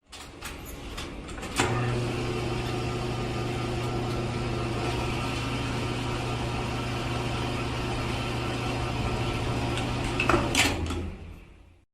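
A small electric motor running with a steady hum, started with a click about a second and a half in and stopping with a few clicks near the end.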